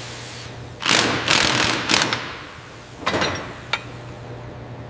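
Mechanical workshop noise: a loud, noisy clatter lasting about a second and a half, then a couple of sharp clicks, over a steady low hum.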